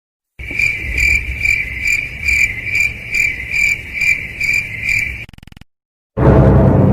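Cricket chirping sound effect: a high chirp repeating about twice a second for about five seconds, then cutting off suddenly. Loud music starts near the end.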